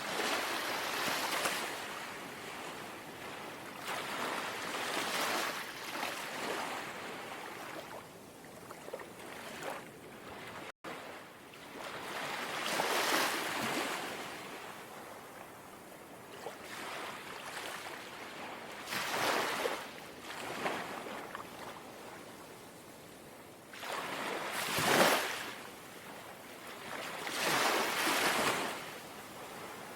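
Small, gentle sea waves lapping onto the shore, each wash swelling and fading every few seconds, the biggest one near the end.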